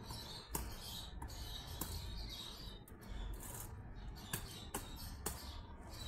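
Small birds chirping in quick, high-pitched bursts, with a few sharp clicks scattered through and a low rumble underneath.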